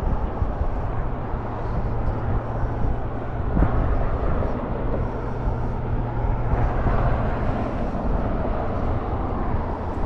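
Steady low hum and rumble of a vehicle running.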